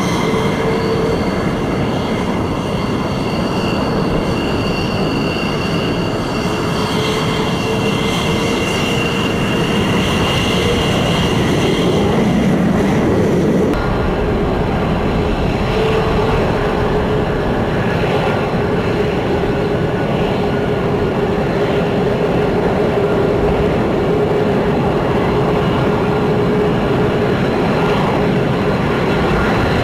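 Jet fighter engines running with a loud, steady roar and a steady high whine; the sound changes abruptly about 14 seconds in.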